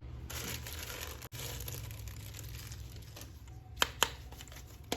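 Plastic toy packaging crinkling and tearing as it is unwrapped, with two sharp clicks close together near the end.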